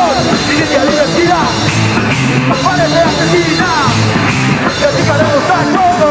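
Live punk rock band playing loud: guitars, bass and drum kit, with a lead line that wavers and slides in pitch over the top.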